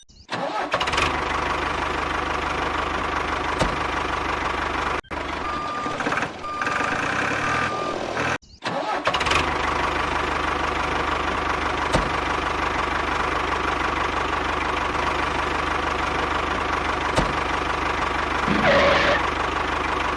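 Tractor engine running steadily, broken by two abrupt short cut-outs, with three short beeps between them.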